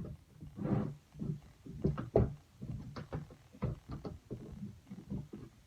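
Wood clamps being handled and tightened against a wooden drawer: a run of irregular clicks and knocks.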